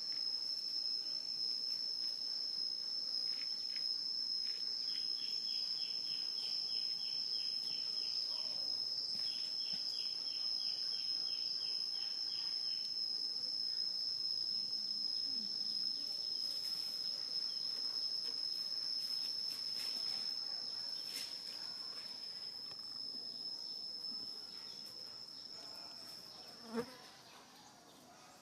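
Insects drone in one steady high-pitched whine that fades out near the end. In the first half a second insect adds two runs of quick chirps, about four a second. A single short knock comes just before the drone stops.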